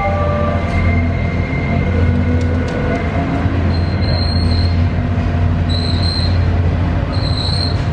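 Commuter train rolling slowly over curved track and points, with a steady low hum. A high-pitched wheel squeal comes and goes three times in the second half.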